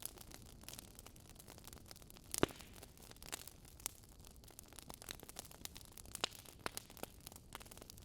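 Logs burning in a fireplace, crackling with irregular sharp pops and snaps over a faint hiss. The loudest pop comes about two and a half seconds in.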